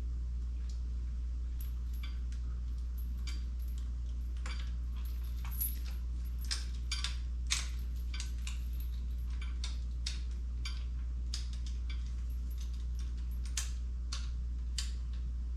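Irregular light metallic clicks and taps from hand tools and jack parts being handled during assembly, a few a second at most, a little louder in the middle. A steady low hum runs underneath.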